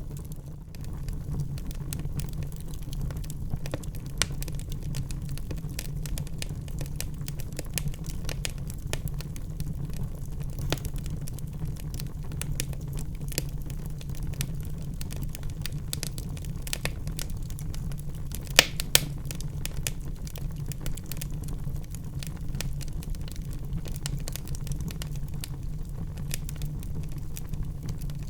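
Wood fire burning in a fireplace, crackling steadily with a continuous low rumble beneath. Two louder sharp pops come close together about two-thirds of the way through.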